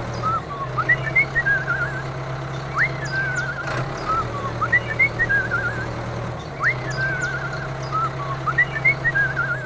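A looped sound track of whistle-like chirps: a quick rising sweep into a warbling tone, then a few short chirps, repeating about every four seconds over a steady low hum.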